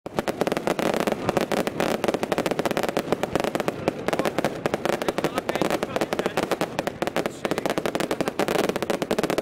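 Fireworks going off in quick succession: ground-fired fountains and crackling stars give a dense, continuous run of sharp crackles and pops, many each second.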